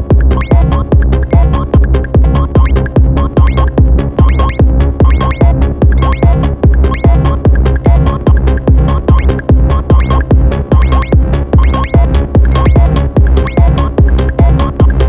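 Electronic techno-style music played on an Elektron Model:Cycles groovebox and Moog synthesizers: a fast, steady drum-machine pattern over a heavy, continuous bass, with repeating pitched synth notes.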